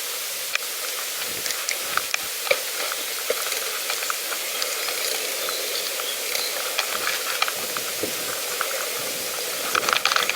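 Bicycle tyres rolling along a path: a steady hiss with scattered small crackles and ticks from grit under the wheels.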